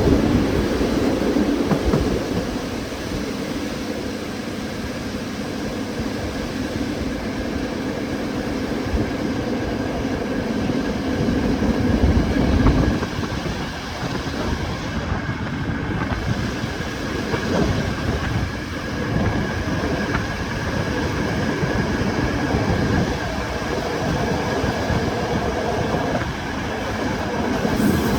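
Passenger train running into a station: a steady rumble of engine and wheels, with clicks of wheels over rail joints and a thin high tone above it.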